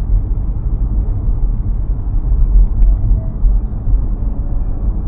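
A 2017 Nissan Rogue SUV driving, with a steady low road-and-engine rumble. One short click a little past halfway.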